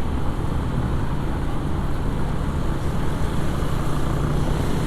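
Motorcycle riding at a steady speed: a steady low engine tone under continuous road and wind noise.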